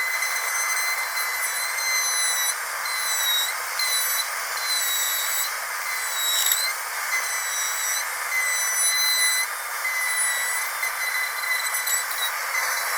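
Dental drill whining at a high, steady pitch over a constant hiss, the pitch dipping briefly now and then.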